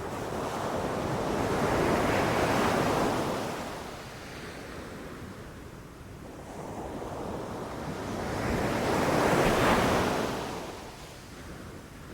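Ocean waves breaking on a beach, two swells of surf that build and wash out, the first peaking a couple of seconds in and the second near the end, with wind noise underneath.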